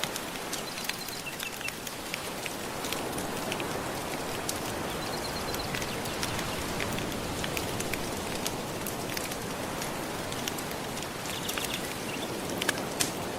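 Steady wash of ocean waves lapping on a shore, mixed with the crackle of a wood fire: many small sharp pops scattered throughout.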